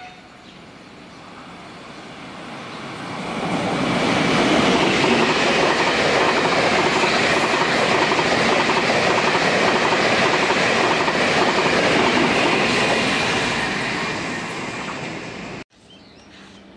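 A Taiwan Railway train passing at high speed: the rush and rumble of wheels on rail builds over the first few seconds, stays loud for about ten seconds, then eases off before the sound cuts off abruptly near the end.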